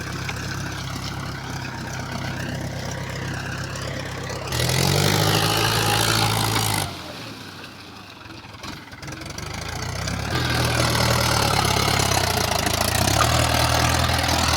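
Mahindra 275 DI tractor's diesel engine running. It revs up with a rising pitch about four and a half seconds in, fades almost away from about seven seconds, then runs steadily and louder again from about ten seconds on.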